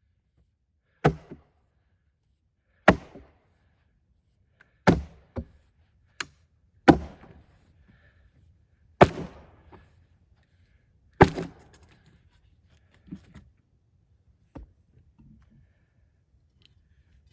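A sledgehammer strikes a steel wedge, driving it into a cedar log to split it into rails. There are about six heavy blows roughly two seconds apart, each with a short ring, a couple of lighter taps between them, and softer knocks near the end.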